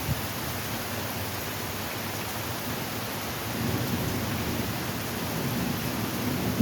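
Heavy rain falling steadily in a thunderstorm, as an even hiss, with a low rumble of thunder swelling from about halfway through.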